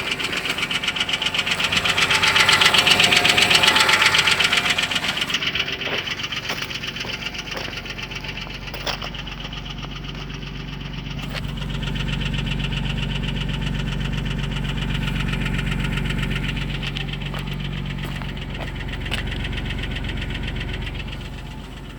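Audi 2.8 FSI V6 engine running with a rapid, even knocking. It is loudest a couple of seconds in, then settles to a lower, steadier run with a deeper hum.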